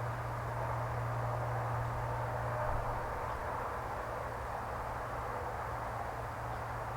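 Steady outdoor background noise: an even hiss over a constant low hum, with no distinct events.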